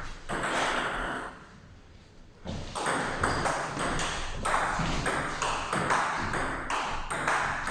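Table tennis rally: the ball clicking off the bats and bouncing on the table in quick alternation, about two to three hits a second, after a brief lull.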